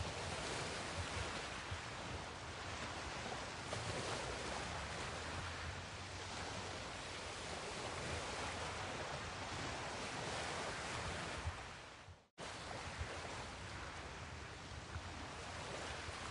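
Steady shoreline ambience of small waves washing in, with wind on the microphone. About twelve seconds in, the sound fades and cuts out for an instant, then carries on as before.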